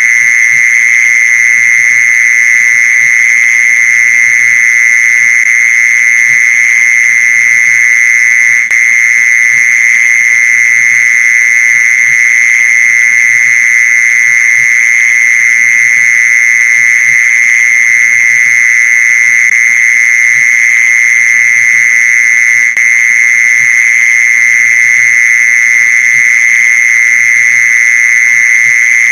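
Mole cricket call: a continuous, steady high-pitched trill held without a break, the kind of recording played to lure mole crickets.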